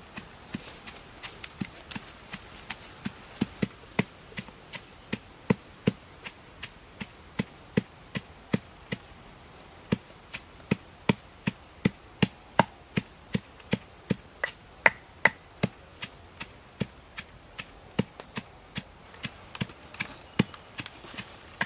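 Knife chopping on a cutting board: steady, even strokes at about two to three a second.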